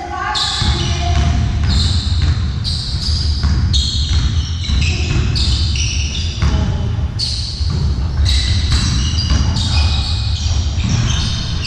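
Indoor court game sounds in a hall: shoes squeaking on the floor in many short, high bursts, over a continuous low rumble.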